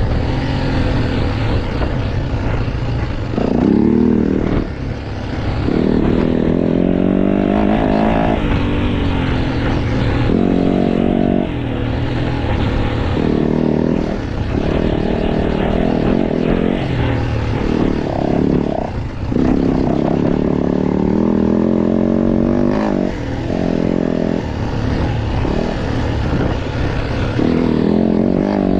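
Motocross bike engine being ridden hard: revs climbing again and again, with short drops each time the throttle is shut or a gear is changed.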